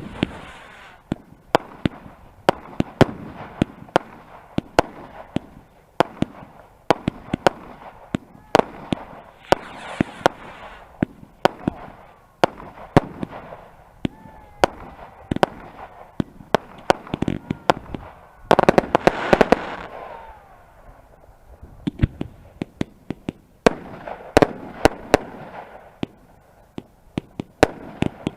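Fireworks going off: a long run of sharp bangs, sometimes in quick clusters, over crackling noise, with a few faint whistles in the middle.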